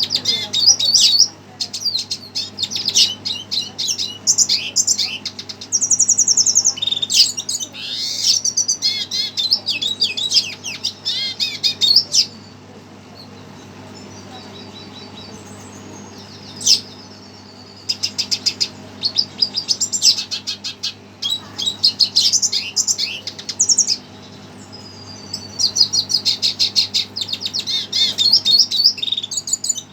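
Red siskin singing in long bursts of rapid, high twittering and trills, broken by pauses of a few seconds. A steady low hum runs underneath.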